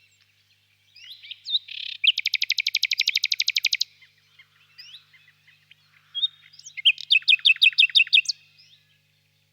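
Nightingale singing: a fast, even trill of rapidly repeated notes about two seconds in, then, after a short pause, a second phrase of slower repeated whistled notes. Fainter bird calls run between the phrases.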